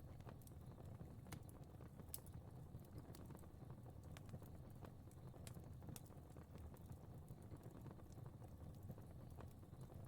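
Faint fire crackling: a low steady rumble of flames with irregular sharp pops and crackles scattered throughout.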